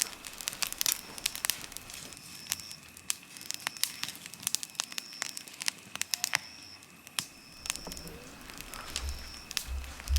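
Wood campfire crackling and popping with irregular sharp snaps. A short high-pitched note repeats about once a second behind it, and a low rumble comes in near the end.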